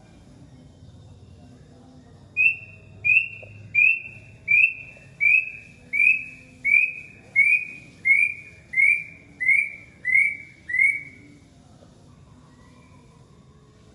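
A bird calling a run of about thirteen short, clear whistled notes, evenly spaced at roughly one and a half per second; the series starts a couple of seconds in and stops about three seconds before the end.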